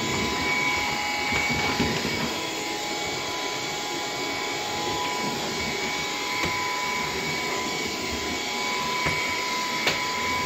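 Bissell PowerGlide cordless stick vacuum running steadily on low power with its brush roll off, a constant motor whine over airflow noise as it sweeps a hard floor. A single sharp click sounds near the end.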